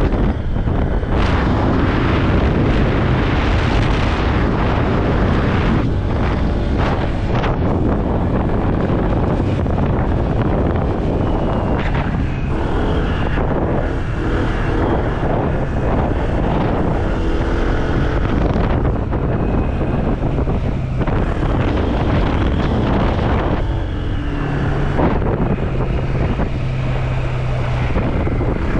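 Motorbike riding at speed: heavy wind rushing over the microphone, with the bike's engine droning steadily underneath.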